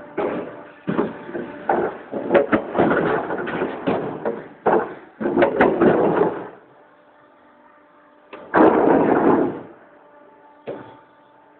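Paving block press machine working: several seconds of loud rattling clatter with sharp knocks, from its vibrating mould and press, then a shorter burst near the end, over a faint steady motor hum.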